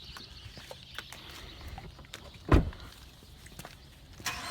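Footsteps and small clicks, then one heavy door thud about two and a half seconds in. Near the end a steady running noise starts.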